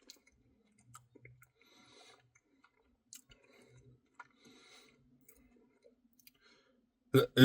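Faint mouth sounds of eating soft ice cream: scattered small clicks and wet smacks. A loud vocal noise breaks in near the end.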